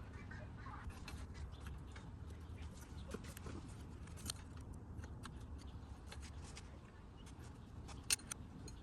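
Faint scattered clicks and light metallic ticks of hand tools being worked on engine parts, over a low steady hum, with one sharper click about eight seconds in.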